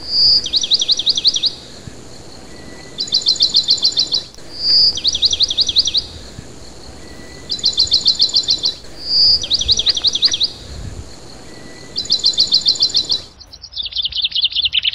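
A songbird singing the same short phrase over and over: a quick run of about eight high, downward-sliding chirps, some runs opening with a brief whistle. About a second and a half before the end it cuts off abruptly and gives way to busier, more scattered bird chirping.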